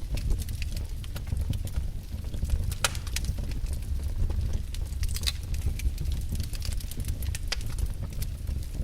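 Wood fire in a fireplace crackling, with irregular sharp snaps and pops over a steady low rumble of the flames; two louder pops about three and five seconds in.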